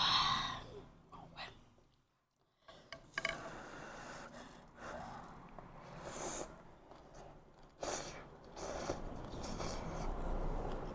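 Close-up eating sounds from a bowl of bún riêu noodle soup: a loud slurp or sharp intake of breath at the start, then chewing and mouth sounds with small clicks. The sound cuts out completely for a moment about two seconds in.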